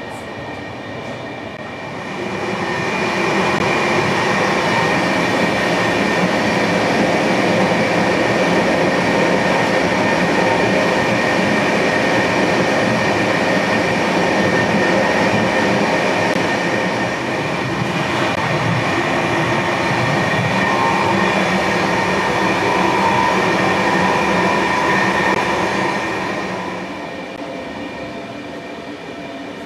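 A passenger train running on the rails: a dense rumble with a steady high-pitched whine over it. It swells about two seconds in, holds steady, and eases off near the end.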